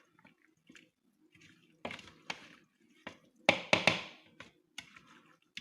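Scattered knocks and clicks of kitchen utensils and a bowl as cilantro is added to egg salad, with a cluster of louder knocks about three and a half seconds in.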